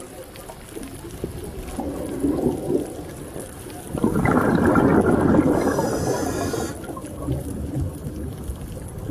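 Underwater ocean sound: water churning and gurgling, swelling into a louder burst of bubbling about four seconds in that eases off a few seconds later.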